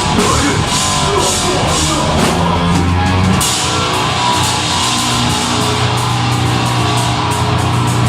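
Deathgrind band playing live, with heavily distorted guitars and a drum kit. About three and a half seconds in, the regular cymbal hits stop and low guitar chords are held.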